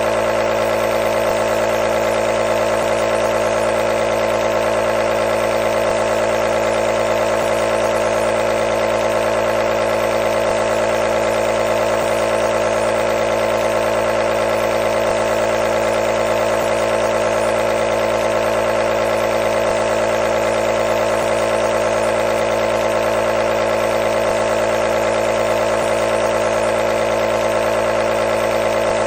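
Nebulizer compressor running steadily: a constant motor hum over a hiss of air, with no change in pitch or level.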